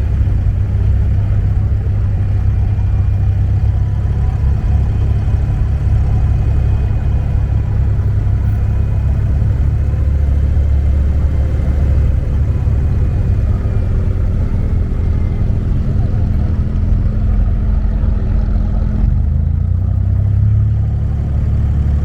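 Boat engine running steadily under way: a loud, continuous low drone.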